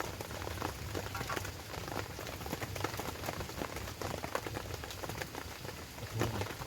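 Steady rain pattering on a surface, a dense run of small drop ticks.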